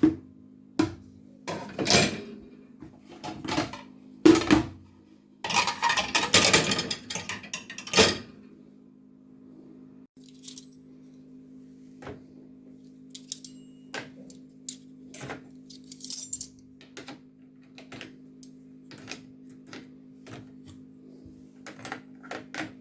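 Ceramic plates and dishes clattering and clinking as they are set into a dishwasher's racks, dense for the first eight seconds and then only occasional light clicks. A steady low hum runs underneath.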